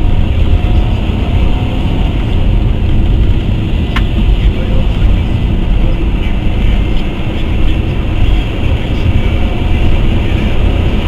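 Steady low road and engine rumble inside a moving car, with a single sharp click about four seconds in.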